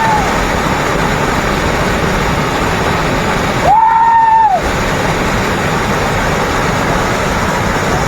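Waterfall roaring steadily as a dense rush of falling water. About halfway through a short, held high tone sounds for just under a second, rising at the start and falling away at the end.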